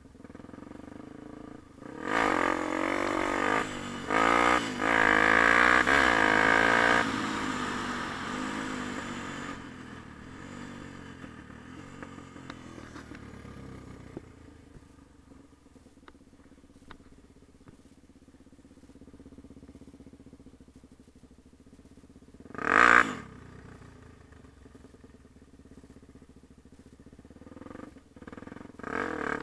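Yamaha TT-R250 dirt bike's single-cylinder four-stroke engine revving hard, its pitch climbing and dropping as it works through the throttle, then fading away into the distance over several seconds. A brief loud burst comes about two-thirds of the way through, and the engine grows louder again near the end.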